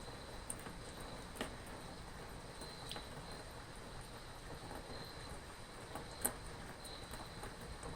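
Steady rain with scattered sharp drips, the loudest about six seconds in, and faint high insect chirps every second or two.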